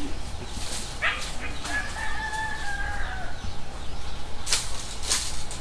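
A rooster crowing: a long, held call from about two seconds in. Two short, sharp noises follow near the end.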